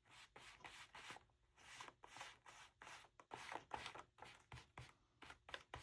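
Quick, soft dabbing and rubbing of a stenciling tool on paper, about three or four dabs a second, as colour is dabbed through a stencil in little spots.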